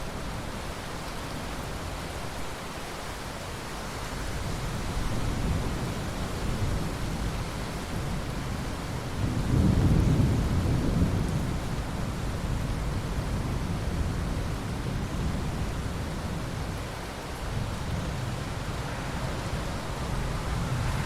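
Steady rain with rolling thunder. The low rumble builds a few seconds in, is loudest about halfway through, then fades back under the rain.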